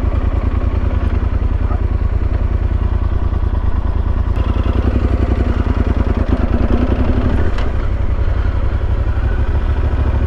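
Motorcycle engine running at low speed, a steady low pulsing throughout, with a slight change in its note about three-quarters of the way in.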